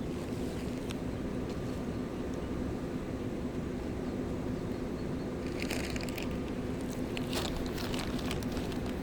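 Steady low rushing of a mountain river, the Gave de Pau. A little past halfway, irregular crunching and crackling start over it, like snapping twigs or gravel underfoot.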